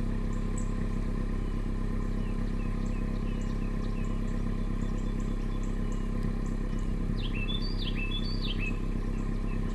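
Honda Civic Si 1.5L turbo four-cylinder idling steadily through a catless Megan Racing front pipe and downpipe, with the stock resonator and dual mufflers. Birds chirp in the background, most busily about seven seconds in.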